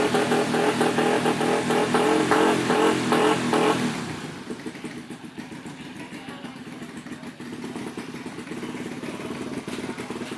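Motocross bike engine running loudly with a busy, clattery note. About four seconds in, the level drops sharply and the engine runs on more quietly and steadily.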